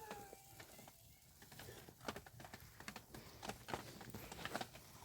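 Faint, scattered clicks and light rustling, growing more frequent about two seconds in.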